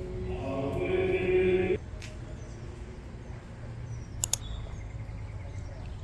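Choral chanting that cuts off abruptly under two seconds in, leaving steady low background noise with two quick clicks close together a little past the middle.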